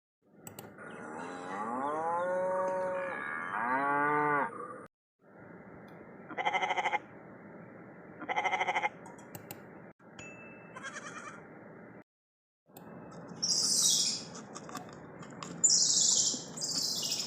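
Farm animals calling in a run of short clips: first a long call with gliding pitch, then two short quavering bleats a couple of seconds apart, then three high-pitched peeping calls near the end.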